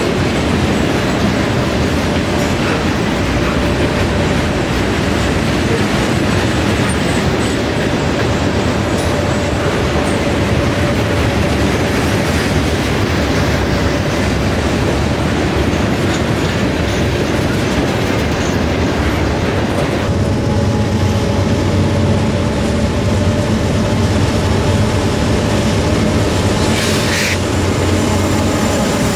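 Freight train of open-top hopper cars rolling past close by, steel wheels clattering over the rail joints in a loud steady rush. About two-thirds of the way through it gives way to a steadier low drone of diesel locomotives approaching, rebuilt GE AC44C6Ms.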